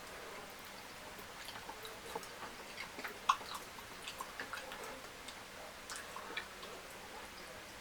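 Close-miked eating: a person chewing, with an irregular scatter of small wet clicks and smacks from the mouth.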